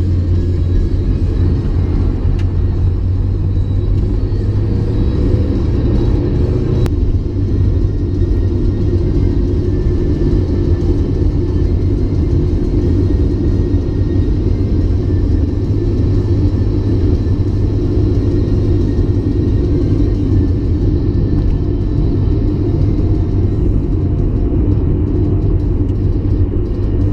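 Onboard sound of a 1994 Mazda MX-5 Miata's 1.8-litre twin-cam four-cylinder engine and road noise while driving, a steady rumble whose engine note shifts about seven seconds in.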